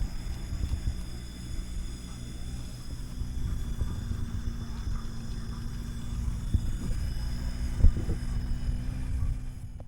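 Vehicle engine running at low revs: a steady low rumble with a faint hum held under it, and a single knock about eight seconds in.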